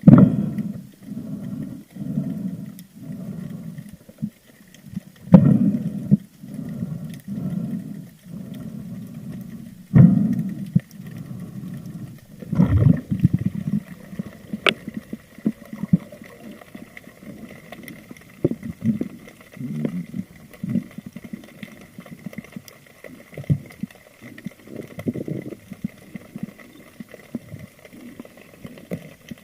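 Muffled underwater sound, as heard from a camera on a spearfisher: low whooshing pulses about every 0.7 s, broken by a few sharp louder thumps. From about halfway in it turns to softer irregular rustling with a faint steady high tone.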